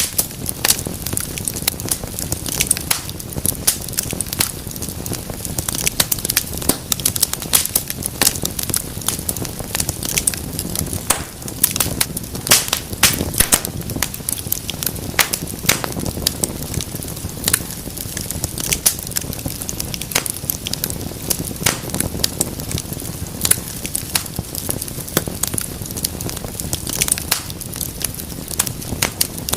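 Wood fire burning in a fireplace, crackling and popping constantly with many irregular sharp snaps over a low steady rumble of the flames.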